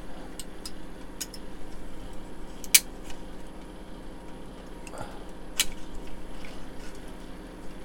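Sharp clicks and taps of plastic model kit parts being handled and pried apart, the engine being taken off the chassis. The loudest click comes nearly three seconds in, with another about five and a half seconds in.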